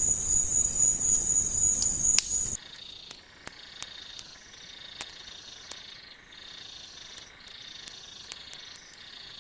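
Forest insects chirring in a steady high buzz. About two and a half seconds in, the sound drops abruptly to a quieter, lower-pitched insect tone, with scattered small pops and ticks from a young campfire of wet twigs burning on soap-and-gasoline tinder.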